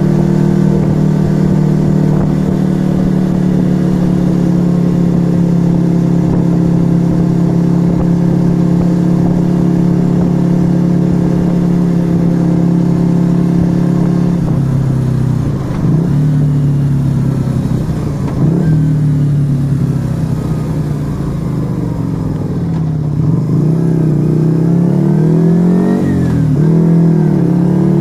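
Yamaha XV125 Virago's small V-twin engine through a Turbo Kit aftermarket exhaust, riding at a steady pitch for about the first half. It then drops and climbs in pitch several times as the rider eases off and accelerates through the gears.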